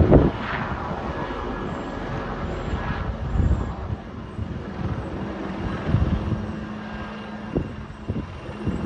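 Helicopter in flight, its engine and rotors a steady drone, with irregular low swells in the sound.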